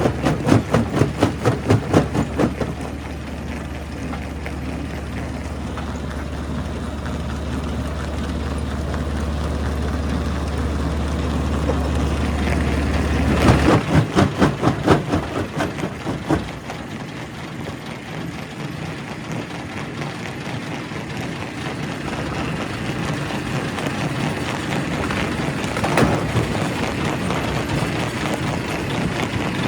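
Primary quarry rock crusher running with a steady heavy-machinery drone, breaking up rock. There are bouts of rapid crunching and clattering at the start and again about halfway through, and a single sharp crack near the end.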